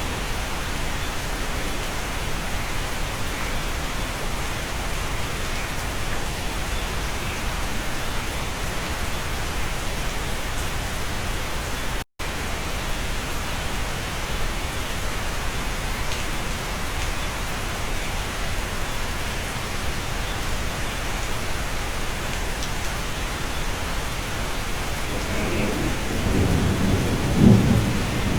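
Steady, even rain, with a low rumble of thunder building near the end. A split-second dropout about twelve seconds in.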